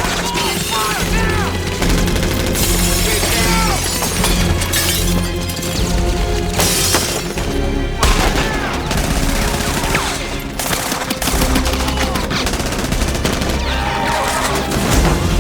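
Film fight-scene soundtrack: bursts of rapid gunfire over a background music score with steady low sustained notes.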